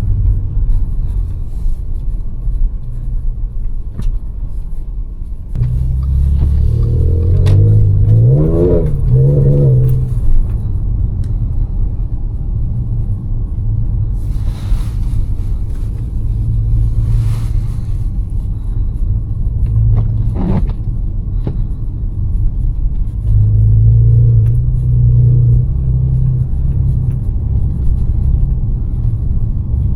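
Supercharged V6 of a Stage 1 tuned Audi S5 with its resonator deleted, pulling through city driving. The engine pitch climbs and falls during a spell of acceleration about a quarter of the way in, and rises again more gently later.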